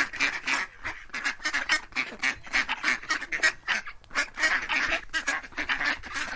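Ducks quacking, a rapid unbroken run of short quacks at about five a second.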